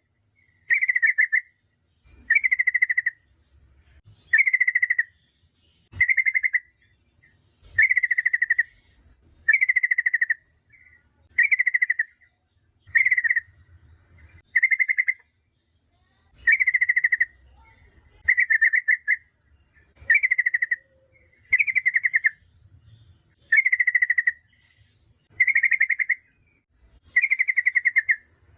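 Yellow-vented bulbul (trucukan) calling: a short, fast-pulsed chattering phrase, repeated about every two seconds. It is a lure call, played to draw other bulbuls into answering.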